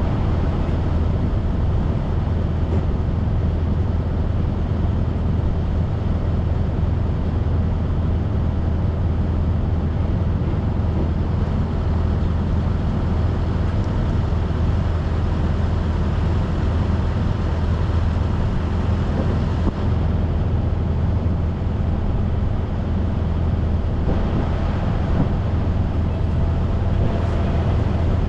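Semi-truck driving at a steady speed: a constant low engine drone with road noise over it.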